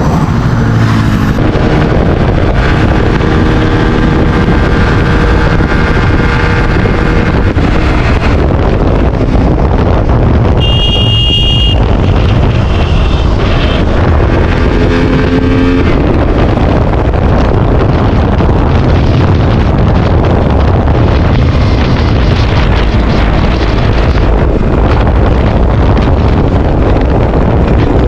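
KTM RC 200 single-cylinder motorcycle engine running on the road, under wind rushing over the microphone. About eleven seconds in there is a short high-pitched beep, and a little later the engine note shifts briefly.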